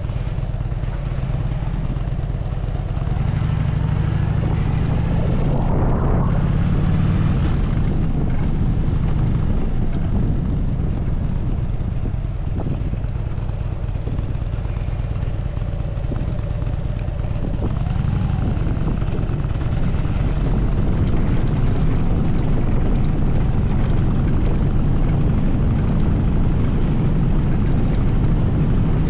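Harley-Davidson Dyna Super Glide's air-cooled 45-degree V-twin engine running steadily under way, picking up briefly a few seconds in and again about two-thirds of the way through.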